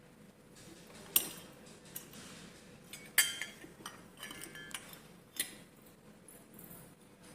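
Several sharp clinks and clicks of small hard objects, such as metal or glass parts, knocking together, each with a short ring. The loudest come about a second in and about three seconds in, with a quicker cluster of clinks a little after four seconds.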